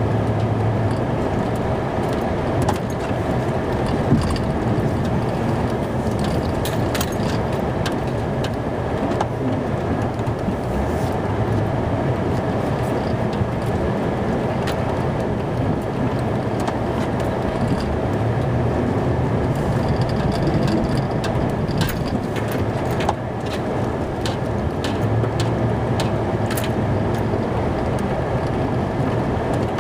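Plow truck's engine running steadily, its low drone swelling and easing every several seconds, with scattered clicks and rattles.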